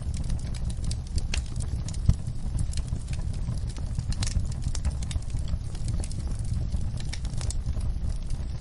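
Campfire burning: wood crackling with frequent sharp pops, one louder snap about two seconds in, over a steady low rumble.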